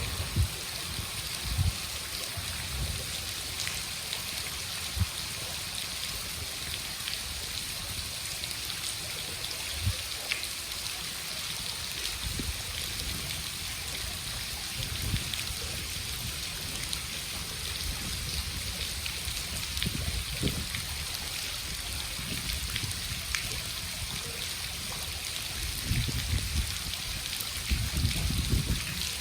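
Steady rain falling, with a continuous hiss and trickle of water. Occasional low thumps come through, most of them in the last few seconds.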